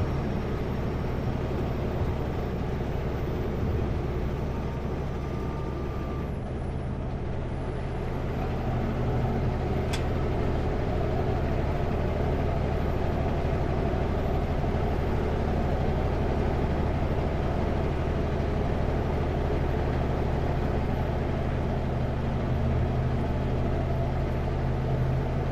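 Kenworth W900L semi truck's diesel engine running steadily at highway speed, with a continuous drone and road noise. A single brief click about ten seconds in.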